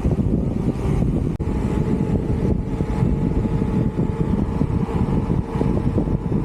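Wind buffeting the microphone while riding at speed, a dense low rumble over a faint steady whine from the vehicle's drive.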